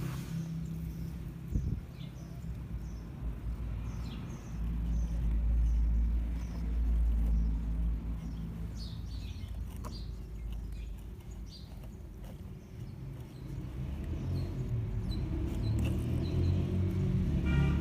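Vehicle running with a low rumble that swells about four seconds in and again near the end, while birds chirp.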